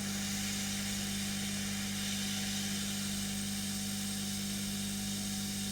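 Hot air rework station blowing, a steady hiss of air over the low hum of its fan. The hiss grows louder right at the start, as the hot air reflows the solder on a replacement capacitor.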